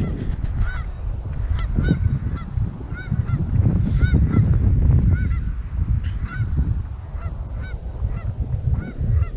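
Several geese honking, a string of short calls in quick succession, over a steady low rumble.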